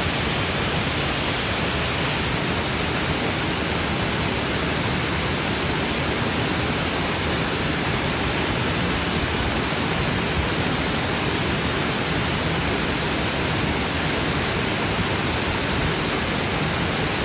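Waterfall's steady roar of falling water, an even rushing noise that holds constant throughout.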